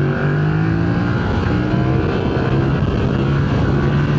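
Yamaha MT-07's 689 cc parallel-twin engine with stock exhaust, pulling at a steady engine speed while riding, its note settling slightly lower about a second and a half in.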